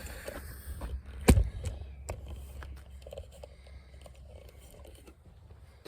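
Wind rumbling on the microphone, with one sharp knock about a second in and a few lighter clicks and taps of the camera being handled.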